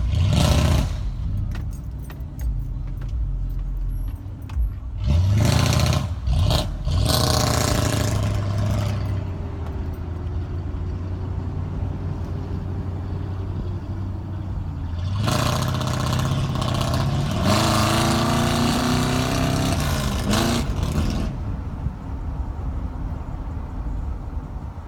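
1993 Chevy Caprice's V8 running through a straight-piped exhaust. It idles steadily and is revved up twice: briefly about five seconds in, then for several seconds from about fifteen seconds in.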